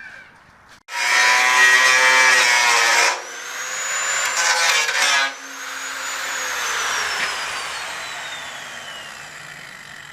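DeWalt DW400 angle grinder cutting into the steel shell of an old water heater in two loud stretches, its cutting disc nearly worn away, then its whine falling steadily in pitch as the disc winds down.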